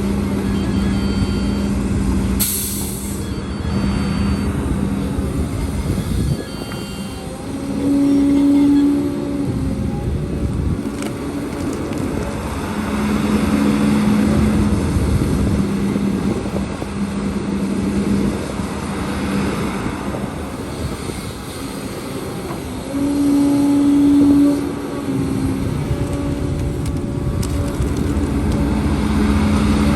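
Heavy diesel engine of earthmoving machinery running steadily, revving up twice under load for a second or two, about eight seconds in and again near twenty-three seconds. A short hiss of air sounds about two seconds in.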